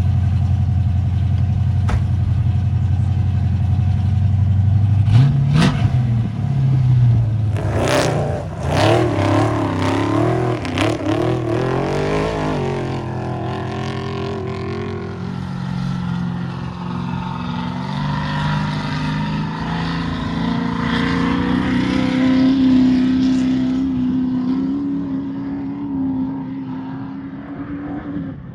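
Off-road race vehicle's engine idling, then revving up and pulling away about five seconds in, with a few sharp knocks and clatter over the next several seconds, then running at a steady higher pitch until it fades near the end.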